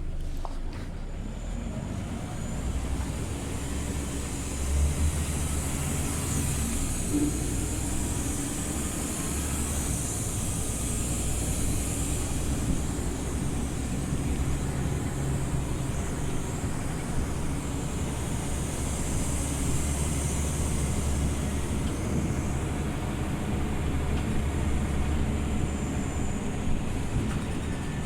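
Scania OmniLink CL94UB city bus driving, with its diesel engine running and steady road and tyre noise heard from inside the cabin.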